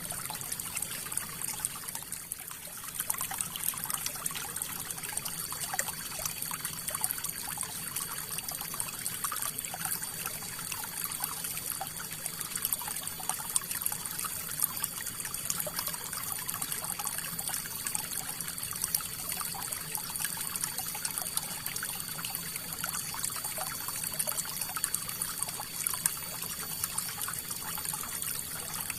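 River water flowing and trickling steadily, with many small splashes.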